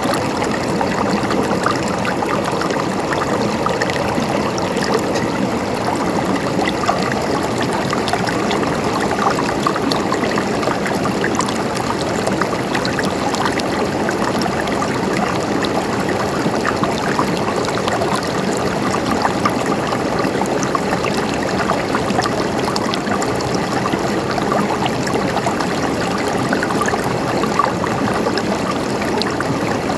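Flowing water gurgling steadily, an even, unbroken rush.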